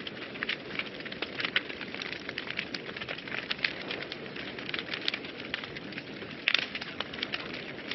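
Wood fire burning in a fireplace, crackling with irregular sharp pops over a steady low hiss, a few louder snaps about six and a half seconds in.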